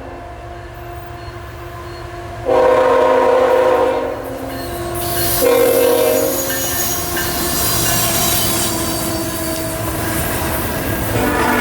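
Freight diesel locomotive's horn sounding in short blasts, one about two and a half seconds in, another about five and a half seconds in, and again near the end, over the passing train. From about the middle, a high squeal of wheels on the curve rises under it.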